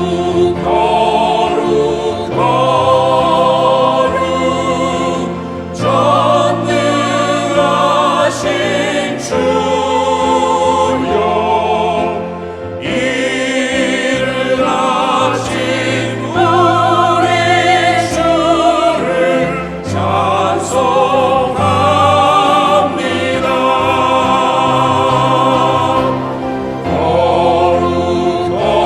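Church choir singing an anthem, many voices holding long notes with vibrato over a sustained low accompaniment, with short breaths between phrases.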